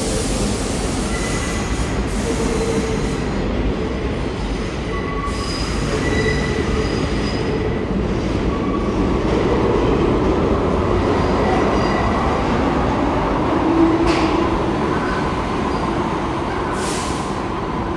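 New York City subway train cars running through the station with a steady rumble, the wheels giving short, scattered squeals on the rails.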